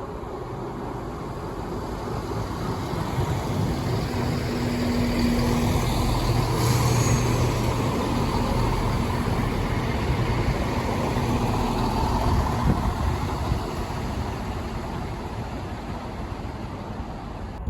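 A train passing through the station, its low running hum building for several seconds, holding, then fading away.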